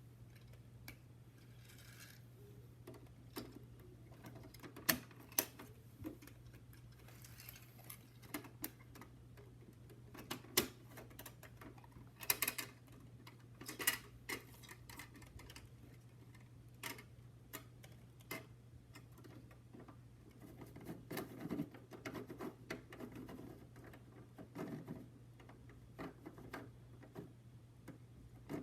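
Scattered small clicks and taps from a plastic miniature rear-loader garbage truck being handled and worked, over a steady low hum.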